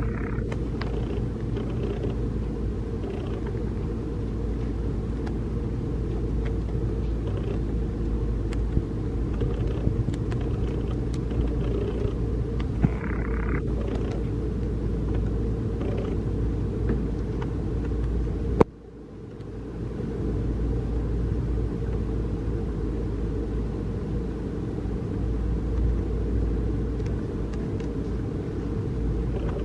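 Steady low rumble of outdoor background noise. About two-thirds of the way through there is a sharp click, after which the sound dips briefly and then returns.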